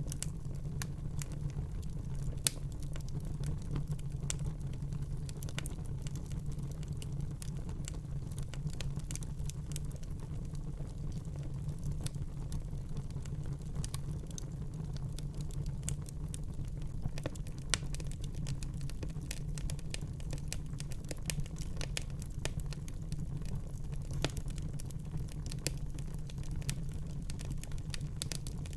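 Wood fire crackling in a fireplace: frequent irregular pops and snaps over a steady low rumble of the burning, with a couple of louder pops.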